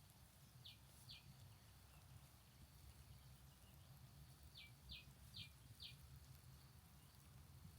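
Faint bird chirps over near silence with a low hum: two short, high, falling notes about a second in, then a quicker run of four around the middle.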